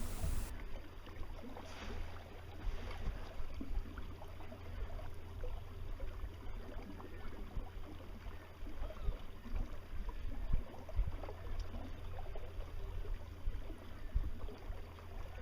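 Water lapping and gurgling along the hull of a Precision 18 sailboat as it sails slowly, over a steady low rumble of wind on the microphone.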